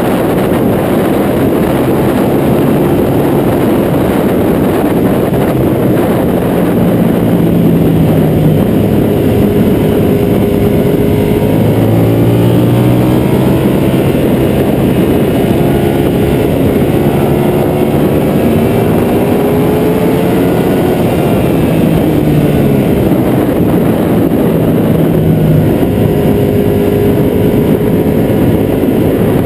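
Ducati 1199 Panigale's Superquadro V-twin engine at racing speed, its pitch rising and falling again and again with throttle and gear changes. Heavy wind rush on the fairing-mounted camera runs under it.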